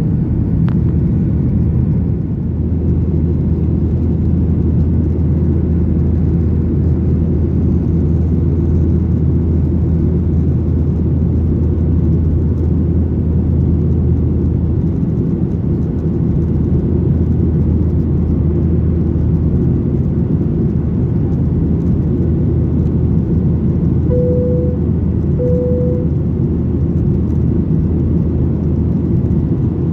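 Boeing 737-900ER airliner cabin noise: the steady rumble and whir of its CFM56-7B engines and airflow, with a low hum that sets in about two seconds in. Two short, matching tones sound near the end.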